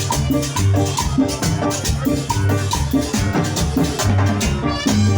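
Live dance band playing an instrumental passage: bass, drums and maracas keeping a steady, even beat with brass or keyboard chords over it.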